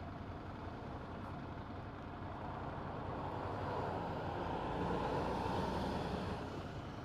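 Ducati 797 L-twin motorcycle engine running on the move in traffic, with road and wind noise. The noise swells louder for a few seconds in the middle, then eases.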